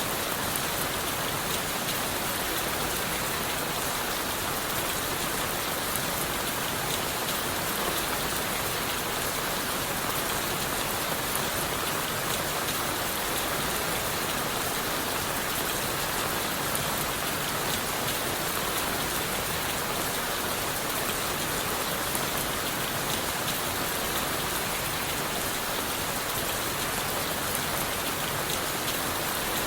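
Steady rain falling on leaves and wood, an even hiss dotted with many small drop impacts that keeps the same level throughout.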